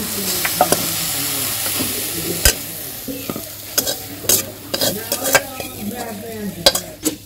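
Freshly oil-fried moringa leaves sizzling as they are scraped out of a metal karai into a steel bowl, with sharp clinks and knocks of the spatula on the metal. The sizzle is strongest over the first couple of seconds and fades as the clinks go on.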